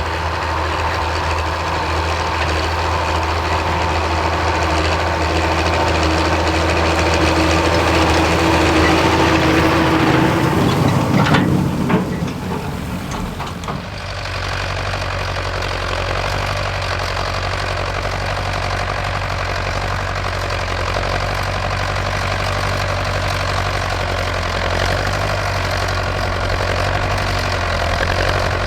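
Vintage Ford tractor engine running steadily. About halfway through the note rises, then gives way to a different steady engine sound.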